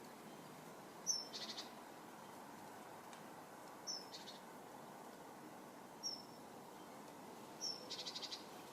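A small garden bird calling four times, each call a short high downslurred note followed by a quick rattling trill.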